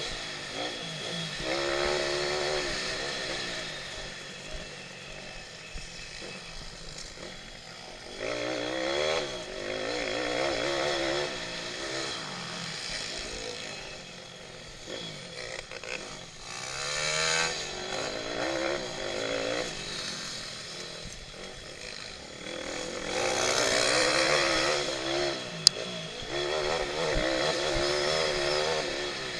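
Pitbike engines running hard under racing, the revs rising and falling again and again with acceleration and gear changes, loudest in surges about 8, 17 and 24 seconds in. A sharp click is heard about 25 seconds in.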